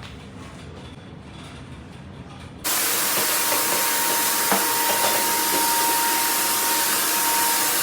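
Pet grooming blow dryer switched on suddenly a little over two seconds in, then blowing steadily: a loud rushing hiss of air with a steady motor whine under it.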